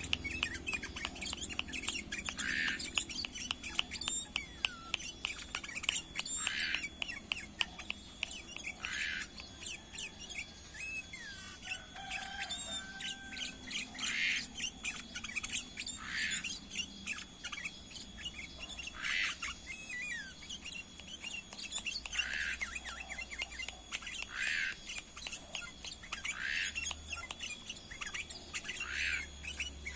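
Ketilang emas, a bulbul, giving short chirping calls about every two to three seconds, with a constant scatter of faint ticks and clicks.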